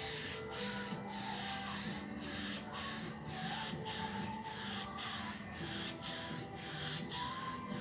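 Rhythmic back-and-forth rubbing strokes on a refrigerator's metal body, about two strokes a second, with faint music underneath.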